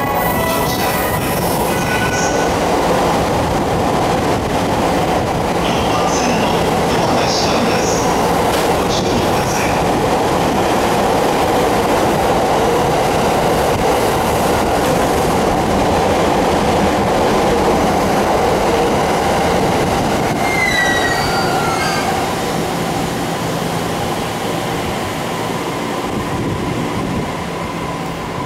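JR E231 series 1000 commuter train standing at the platform with its doors open, its onboard equipment giving off a loud, steady noise.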